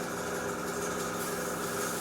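Small airbrush compressor humming steadily, with air hissing from the airbrush as it sprays.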